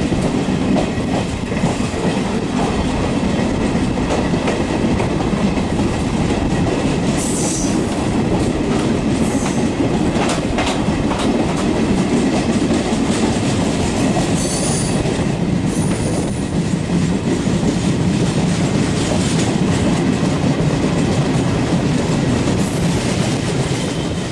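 Passenger train running at speed, heard loud from an open coach door: a steady rumble and clatter of wheels on rails, with a train on the next track passing close alongside. Brief high-pitched wheel squeals come through a few times.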